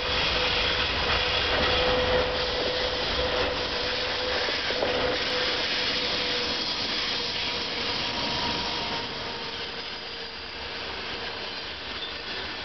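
VL80T twin-section electric locomotive running past at the head of a freight train of open wagons, with a steady hum and the noise of wheels on the rails; the sound eases slightly in the second half as the wagons roll by.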